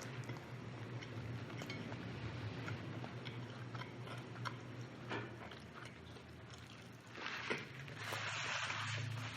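Close-up chewing and biting of rotisserie chicken, with small wet clicks as meat is pulled from the bones. A louder stretch of rustling noise comes near the end, over a steady low hum.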